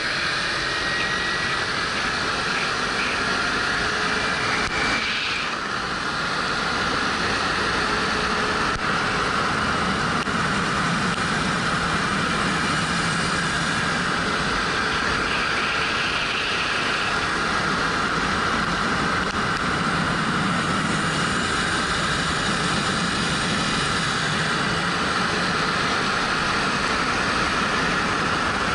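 Steady wind rushing over a helmet-mounted action camera, with the 2013 Suzuki GW250's parallel-twin engine running underneath as the motorcycle is ridden.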